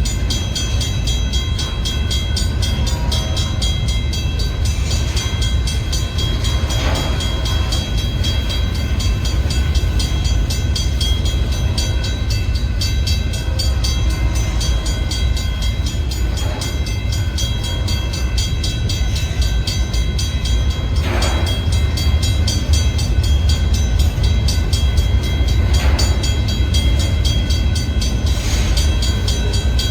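Freight cars of a long manifest train rolling past: a steady heavy rumble, a faint steady high-pitched whine above it, and a few sharp clanks spread through it.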